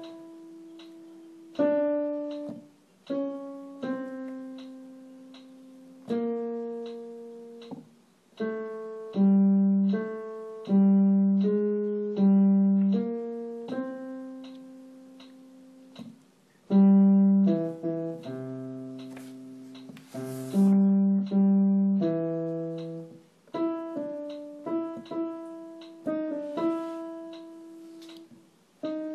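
Piano playing a single vocal line, the tenor part of a choral arrangement, picked out mostly one note at a time. Each note is struck and left to fade, some held for a couple of seconds.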